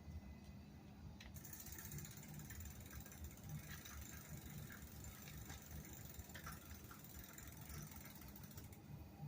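Bicycle freewheel ratcheting in a rapid, quiet ticking as the wheel spins freely, starting about a second in and stopping shortly before the end, with a few louder clicks along the way.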